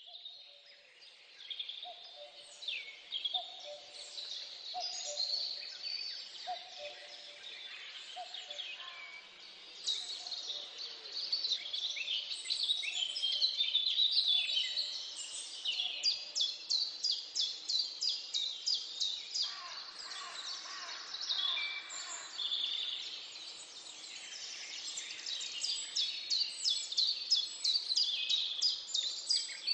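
Birds chirping and singing, with quick rapid-fire trills in the middle and again near the end.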